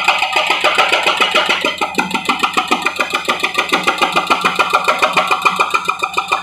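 Heavy road-repair machine working, with a rapid, even pulsing of about seven beats a second.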